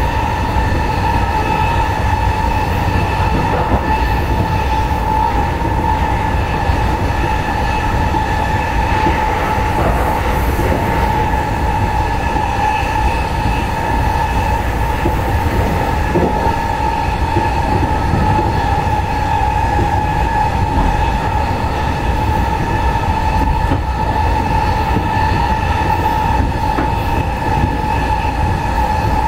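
Running noise heard inside an E217 series commuter train car going fast: a steady low rumble of wheels on rail with a constant high whine on top.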